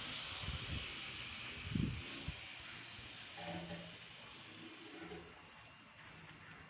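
A steady hiss that slowly fades away, with a few faint low knocks in the first couple of seconds.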